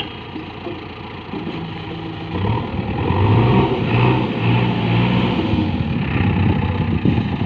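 JCB backhoe loader's diesel engine running, then revving up under load about two seconds in and staying at high revs as the machine loads the truck.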